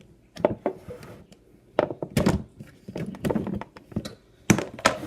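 A box being opened and its contents handled: a handful of dull thuds and knocks, two close together near the end, with some rustling between them.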